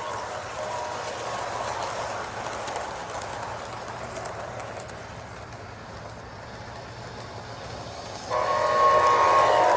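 O-gauge model train running along its track with a steady noise, its electronic horn sounding briefly at the start and then loudly from a little after eight seconds in.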